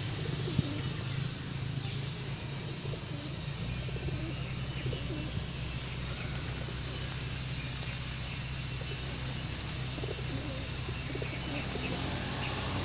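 Pigeons cooing over and over, over a steady low hum, with one sharp click about half a second in.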